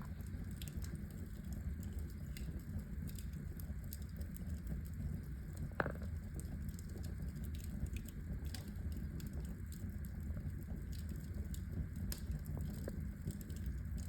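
Fire in a fireplace crackling: a steady low rumble of flame with scattered pops and snaps, and one louder pop about six seconds in.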